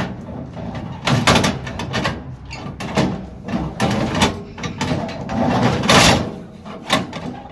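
1951 Ford E493A Prefect's side-valve four-cylinder engine being turned over by hand with a starting handle on a cold first start, giving a rasping burst with each pull, about one a second, the strongest a little before the end.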